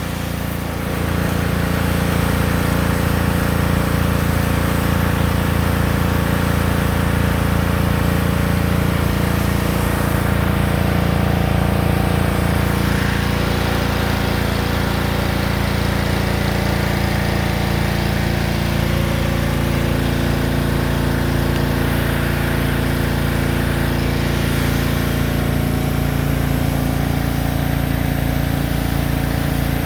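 Gas-engine pressure washer running steadily, its engine hum under an even hiss of spray.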